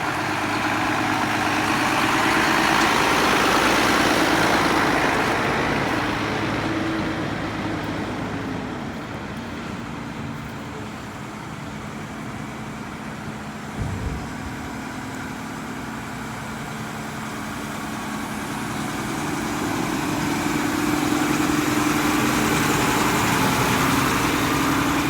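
Mack front-loader garbage truck's diesel engine running, growing louder twice as it revs up and settles back, with a single knock about halfway through.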